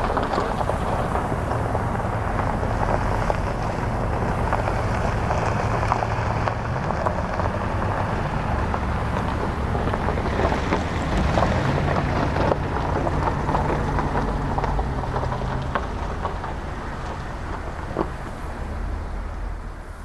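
Jet aircraft engines running at the airport: a loud, steady rumbling roar that fades near the end.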